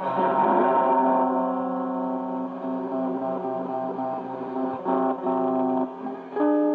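Guitar chords strummed and left to ring, a new chord struck about five seconds in and another near the end.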